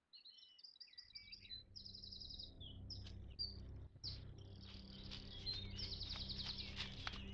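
Birds singing and chirping: quick high trills and rapid repeated notes, one after another, over a faint steady low hum.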